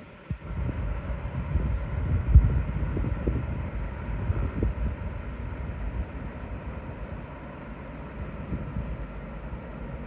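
Wind buffeting the microphone, with irregular low thumps, the strongest a couple of seconds in, over a steady low rumble.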